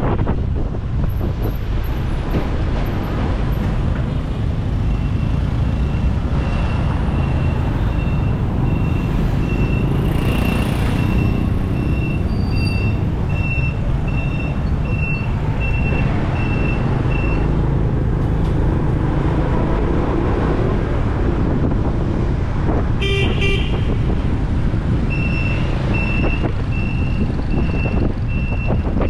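Motorbike riding through city traffic: a steady low engine and road rumble, with a high electronic beep repeating about once a second for long stretches and a short vehicle horn honk about two-thirds of the way through.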